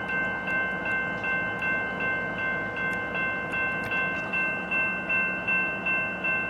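Railroad grade-crossing bell ringing steadily, about three strokes a second, each with a sharp start and fading ring, over the low rumble of the stopped train's idling diesel locomotives.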